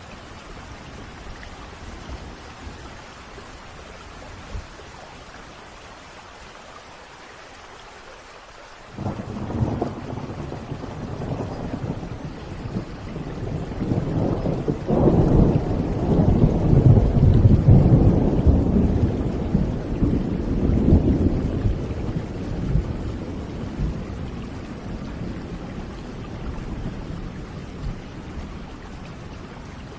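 Steady rain, then about nine seconds in a thunderclap breaks out and rolls into a long, deep rumble that swells for several seconds and slowly dies away under the rain.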